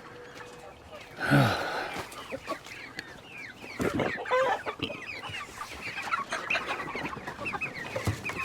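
A flock of chickens clucking, with many short calls overlapping, and a loud harsh burst about a second in.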